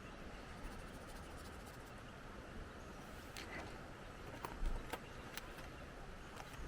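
Watercolor pencil working on synthetic paper, making scattered light ticks and scratches, over a steady wash of outdoor wind noise. A brief low thump comes about four and a half seconds in.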